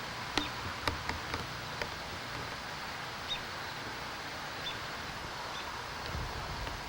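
Quiet outdoor ambience: a steady hiss with a few sharp clicks about a second in, and short, faint, high chirps every second or so, like a small bird.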